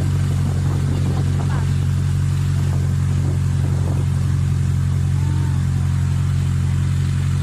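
A boat's engine running steadily at a constant low drone, with faint voices over it.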